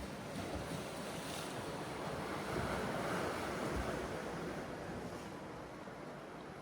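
Sea waves washing onto the shore, one swell building about two seconds in and dying away, with wind buffeting the microphone now and then.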